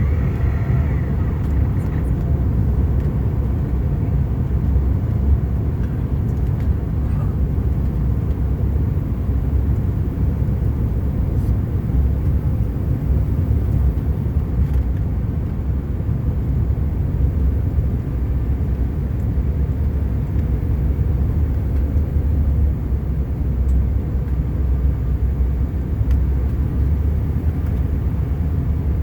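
Steady low rumble of a Bombardier CRJ900 airliner's cabin in flight, the noise of airflow and engines heard from a window seat.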